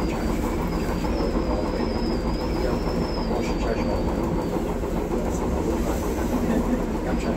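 Light-rail train running along its track, heard from inside the front of the carriage: a steady rumble and rattle of the moving train, with a high whine that wavers and dies away about four and a half seconds in.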